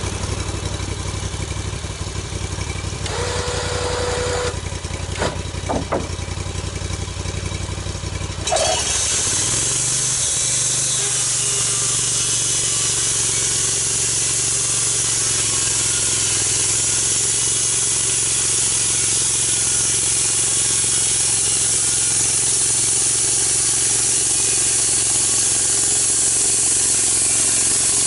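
A small engine running steadily, then speeding up about eight and a half seconds in, joined by a loud steady hiss that holds to the end, typical of log-milling machinery going under load.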